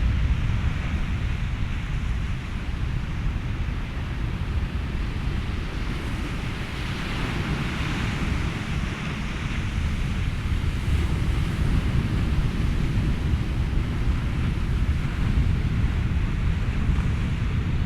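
Ocean waves and wind mixed with white noise: a steady low rumble and hiss, with one wave swelling and washing through about halfway.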